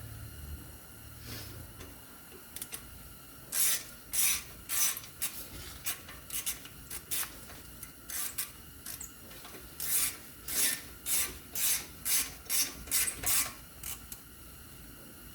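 Ratchet turning a T30 Torx bit to snug down the brake rotor's retaining screw: a run of short rasping clicks, about one or two strokes a second, starting a few seconds in and stopping near the end.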